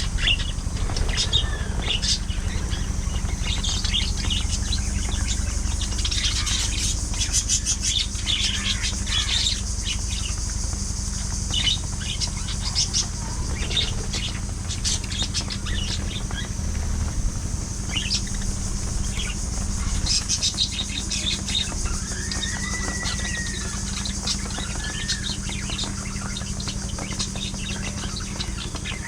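Budgerigars chirping and chattering in many short, quick calls, with a longer whistled call later on, over a steady low hum.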